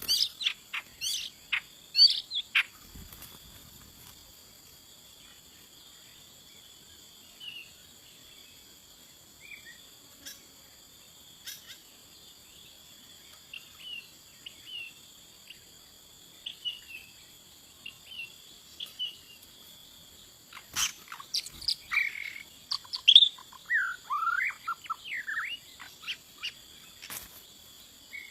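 Bird calls: scattered short chirps, then a busy run of sharp, gliding whistled notes a little past two-thirds of the way through, over a steady high-pitched insect drone.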